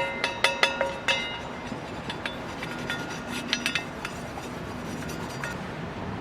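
Metal objects clinking together with a ringing sound, rapid clinks at first, then fewer and fainter ones that stop about four seconds in.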